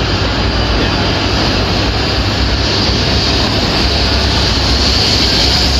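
Shinkansen train moving slowly alongside the platform: a steady rushing and rumbling of wheels and running gear, with a high hiss that grows stronger about halfway through.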